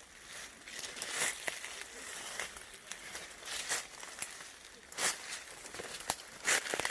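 Irregular rustling and crackling of leaves and twigs, with sharp snaps scattered throughout, as plants are handled or brushed through.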